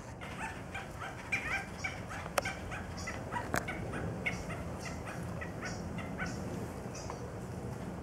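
Birds calling: a string of short, repeated chirping calls at irregular intervals, with two sharp clicks about a second apart near the middle.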